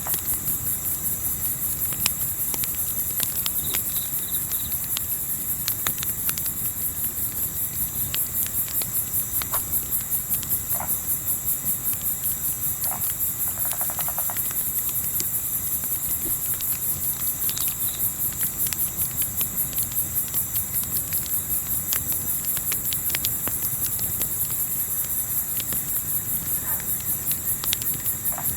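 Crickets chirping in a steady, even pulse several times a second, with the sharp snaps and pops of a crackling campfire scattered through. A brief rattling trill sounds about halfway.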